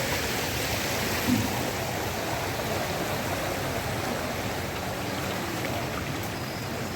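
Floodwater rushing: a steady, even wash of water noise that does not change.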